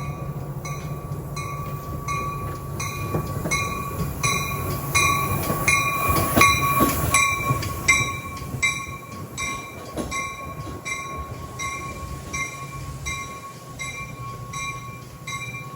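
Metra Union Pacific West commuter train pulling into the station, its locomotive running under a steady low hum that swells to a peak mid-way and then eases as it slows, while a bell rings at a steady rhythm.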